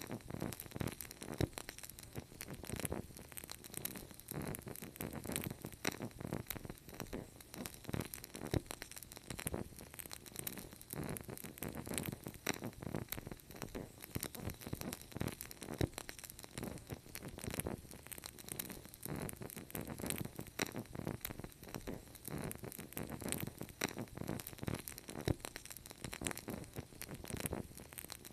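Fireplace fire crackling: a continuous stream of irregular pops and snaps.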